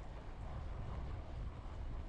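Wind rumbling over the microphone while riding a bicycle: a steady, deep buffeting noise with a lighter hiss of air and road above it.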